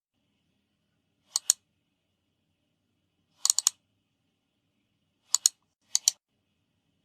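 Short, sharp clicks coming in quick pairs and one triple, with a second or two of silence between the groups.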